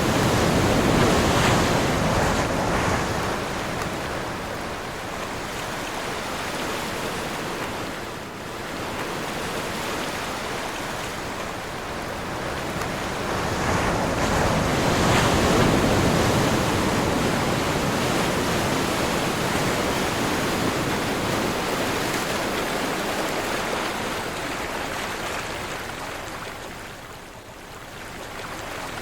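Ocean waves breaking and washing in, in wind: a steady rush that swells to its loudest about a second in and again around halfway, easing off between and dipping near the end.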